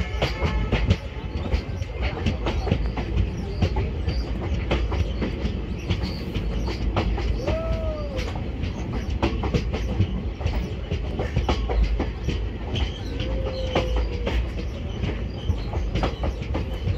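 A passenger train, the Kanchanjunga Express, running along the track, heard from aboard its coach: a steady rumble with the clickety-clack of wheels passing over rail joints. Two brief rising-and-falling squeals of the wheels come about halfway through and again a few seconds later.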